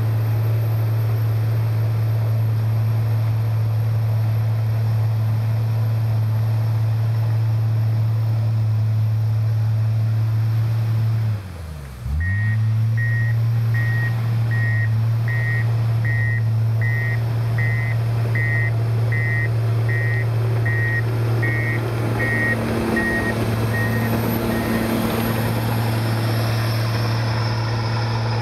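Komatsu bulldozer's diesel engine running steadily under throttle. A little before halfway the engine note drops sharply for a moment and recovers, then the backup alarm beeps about once a second for some twelve seconds as the dozer reverses.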